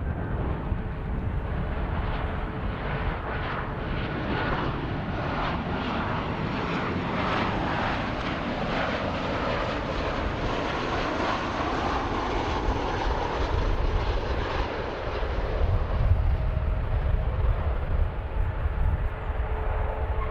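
Aircraft engines as a plane passes: the roar swells to its fullest around the middle, and a deep rumble grows stronger near the end.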